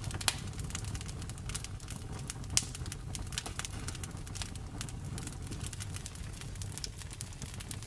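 Wood fire in a fireplace crackling, with frequent sharp pops over a low steady rumble. Two louder pops come just after the start and about two and a half seconds in.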